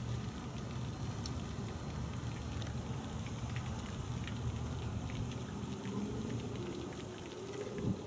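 Gas pressure washer spraying soap foam through an MTM foam cannon onto a car: a steady hiss of spray spattering on the paint over a low engine drone, which starts abruptly and eases off near the end.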